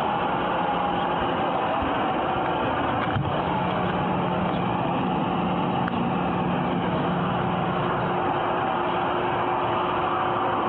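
A vehicle engine idling steadily amid street noise, heard through a body camera's microphone, with a single faint click about three seconds in.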